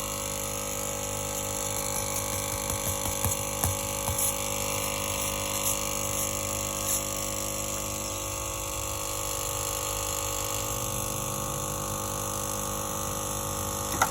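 A small electric tyre pump runs steadily, inflating a tyre freshly plugged after a puncture to check that the repair holds, with a few light clicks partway through.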